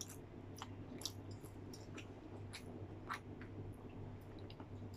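Close-up chewing of fried dried fish and rice: soft wet mouth clicks and smacks, irregular, roughly two a second.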